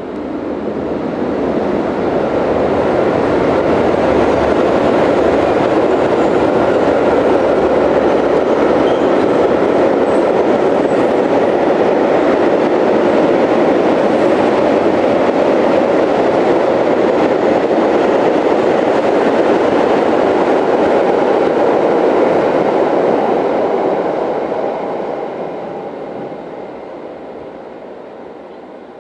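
Freight train hauled by a 3E electric locomotive passing at speed: a steady rolling noise of wheels on rails that builds over the first couple of seconds, holds for about twenty seconds as the wagons go by, and fades away over the last five.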